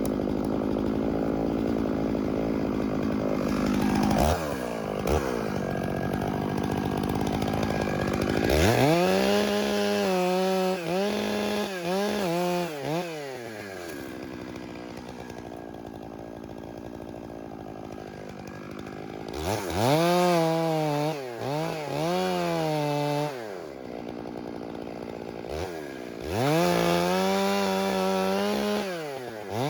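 Chainsaw cleaning up the felling cut on a large spruce. It is opened to full throttle in three stretches, with the pitch rising and falling as the throttle is worked, and drops back to a quieter idle between them.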